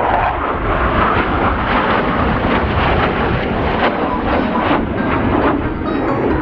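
Loud, steady jet noise from Blue Angels F/A-18 Super Hornet engines as the jets fly the show.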